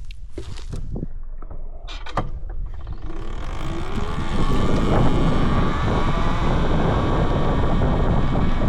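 A few sharp clicks and knocks, then a Talaria Sting R MX4 electric dirt bike pulls away: a faint rising motor whine under a building rush of wind and tyre noise that grows louder about three to four seconds in and then holds steady.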